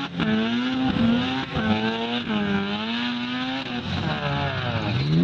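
Rotary-engined Mazda ute doing a burnout: the engine is held high in the revs, its pitch wavering up and down, over the steady hiss of spinning rear tyres. Near the end the revs drop briefly and then climb again.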